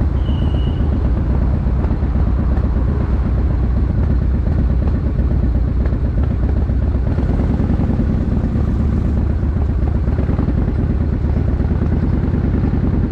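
1965 GMC pickup truck driving at a steady speed: a steady low engine and road drone with no change in pace, and a brief high squeak near the start.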